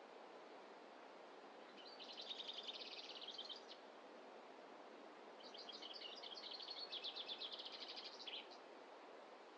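A songbird singing two bursts of rapid, trilled high notes, the first about two seconds in and a longer one from about five to eight and a half seconds, over a faint steady hiss of forest ambience.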